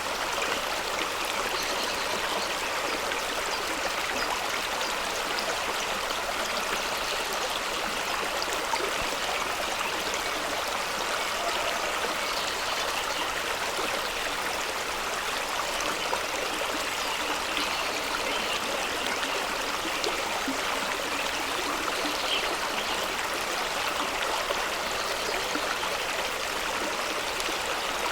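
Fast-running stream rushing and splashing over rocks: a steady, even rush of water.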